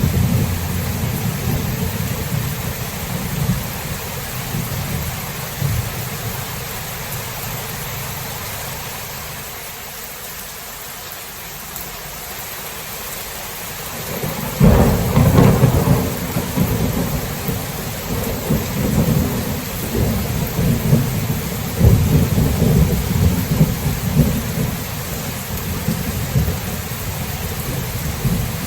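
Thunderstorm: steady rain with low rolling thunder that dies away, then about halfway a sudden sharp thunderclap that rolls on in long rumbles.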